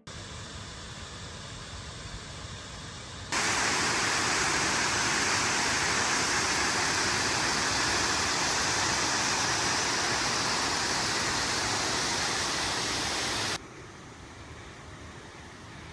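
Rushing water of a waterfall, a steady even roar that jumps suddenly much louder about three seconds in and drops suddenly back to a quieter level near the end.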